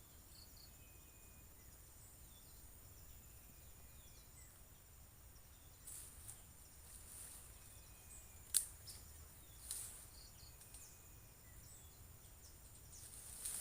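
Faint forest ambience: a steady high insect drone, typical of crickets, with small bird chirps now and then. A few sharp clicks or rustles come in the second half, the loudest a little past the middle.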